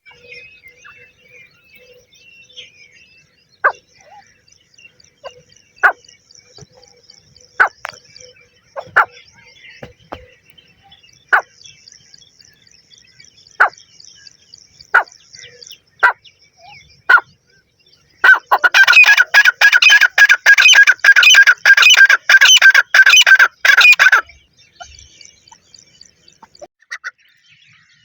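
Grey francolin calling: a series of spaced single sharp notes, then, about two-thirds of the way in, a loud fast run of repeated ringing calls lasting about six seconds. Faint high chirping continues in the background.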